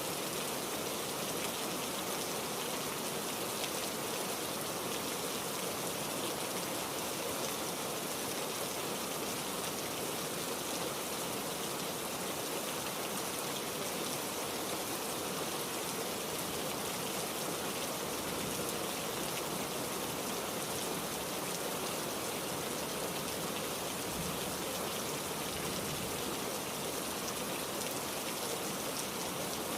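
Heavy rain falling steadily: a constant, even hiss of rain with no breaks.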